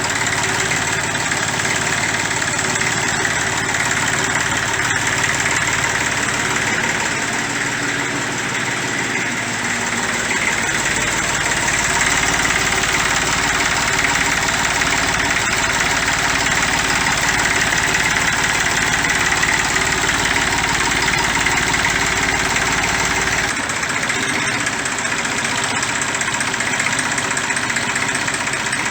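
1959 Fordson Dexta's three-cylinder Perkins diesel engine running steadily after being fired up following a fuel-system bleed and cooling-system refit.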